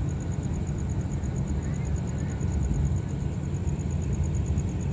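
Steady low rumble of a diesel-hauled passenger train standing at the platform, its engines idling. A faint, fast, high-pitched pulsing runs over it.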